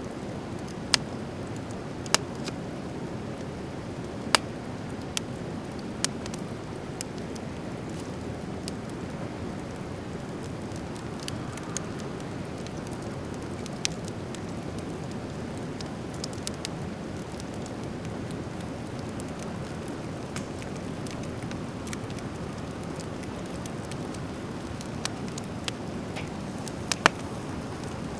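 Driftwood campfire crackling, with sharp pops scattered irregularly, a handful of them louder, over a steady low rushing noise.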